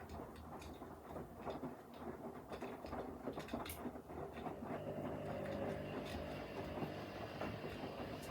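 Front-loading washing machines in the wash phase: the drum turning with irregular clicks and rattles, and a steady motor whine that comes in about five seconds in.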